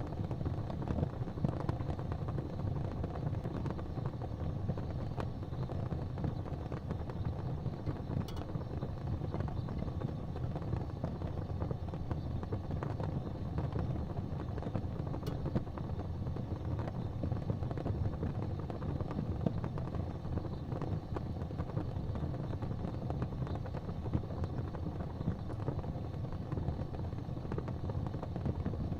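Fireplace fire burning with a steady low rumble and a dense soft crackle, with a couple of faint sharper pops.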